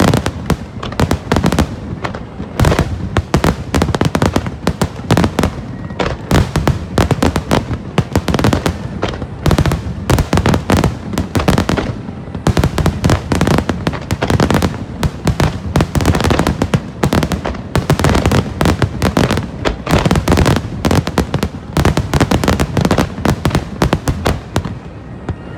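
Aerial fireworks in a finale barrage: shell bursts going off in a dense, continuous rapid-fire run of loud bangs with hardly a gap between them, easing slightly near the end.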